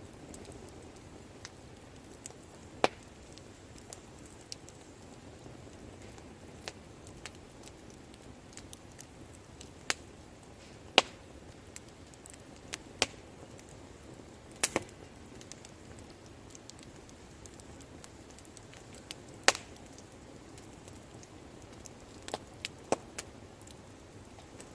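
Campfire of burning wood crackling: sharp pops and snaps at irregular intervals over a soft steady hiss, with a few much louder snaps scattered through.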